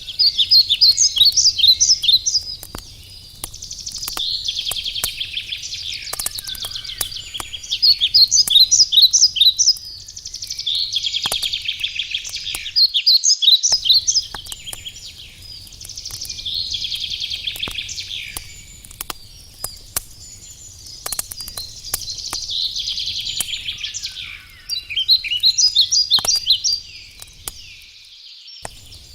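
A songbird sings short, high, trilling phrases over and over, a few seconds apart. Behind it a wood campfire gives off scattered sharp crackles.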